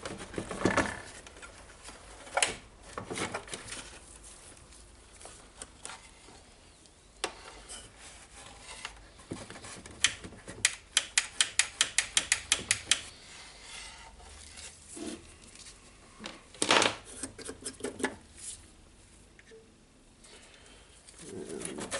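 Clicks and light knocks of tools and plastic parts being handled while a radio is worked on by hand. About halfway through comes a quick, even run of about a dozen clicks, roughly five a second. A louder knock follows later on.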